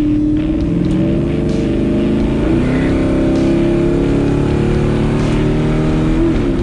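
Restomod 1970 El Camino's engine running under throttle while driving, its pitch shifting, with a change about two and a half seconds in and a glide near the end.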